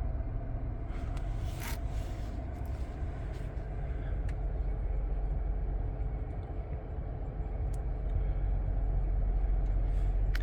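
Steady low rumble of a 2022 Toyota Tundra TRD idling, heard inside its cabin, with a few faint clicks.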